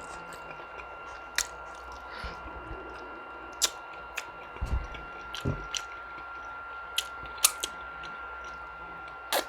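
Close-miked chewing and wet mouth sounds of a person eating curry chicken and rice, with sharp lip-smacking clicks every second or two and a couple of soft low thuds near the middle. A faint steady high whine sits underneath.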